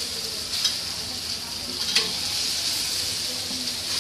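Ground onion-and-spice masala sizzling steadily in hot oil in a steel kadhai, fried through and ready for the gatte. A slotted steel spatula gives a light tick or two against the pan.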